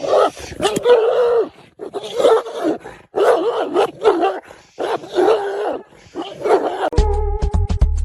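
A pet animal crying out about six times, each cry a short pitched wail that rises and falls. Electronic music with a heavy bass beat starts suddenly near the end.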